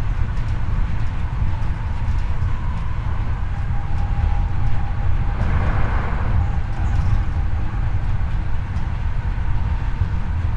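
Hankyu 8300 series electric train running at speed, heard from the car floor above its bogie: a steady wheel-on-rail rumble. A faint thin whine fades out about halfway through, and there is a short swell of hiss about six seconds in.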